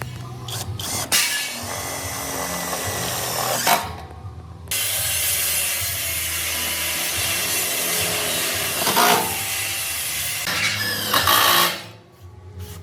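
A power tool running with a steady hiss, stopping briefly about four seconds in and cutting out near the end.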